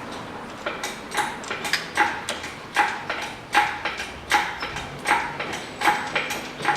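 Engine hoist being worked stroke by stroke to lift an engine: a metallic clack about every 0.8 s, eight in a row.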